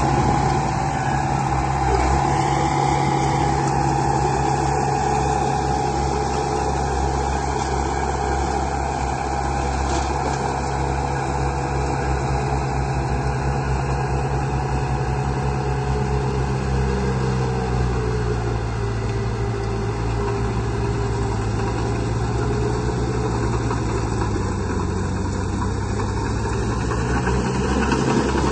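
A heavy construction-vehicle engine idling steadily, its pitch sagging a little past the middle and rising again near the end.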